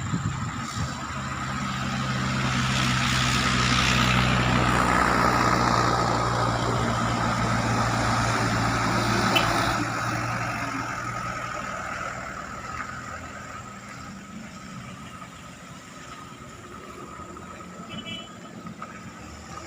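A truck's engine running as it goes past, growing louder over the first few seconds and then fading away in the second half.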